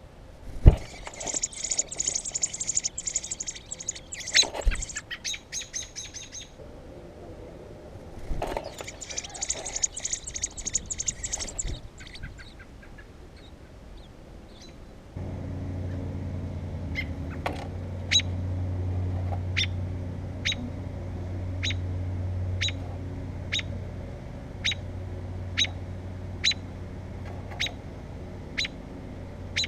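Nestling birds begging: two bursts of rapid, high chirping in the first half, with a couple of knocks. About halfway a steady low hum starts, and single chirps follow about once a second.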